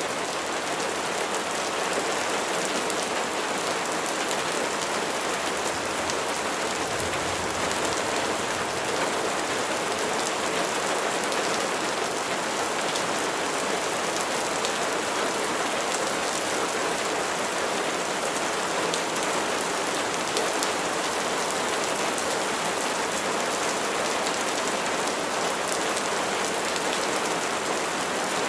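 Steady rain falling and pattering on a surface, an even hiss with individual drops ticking through it.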